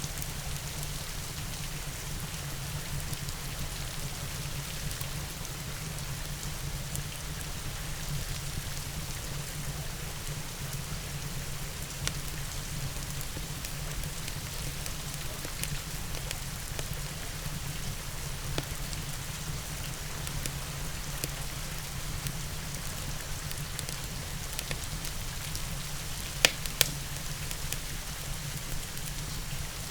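Steady rain falling, with scattered light crackles from a wood fire and two sharp, louder pops near the end.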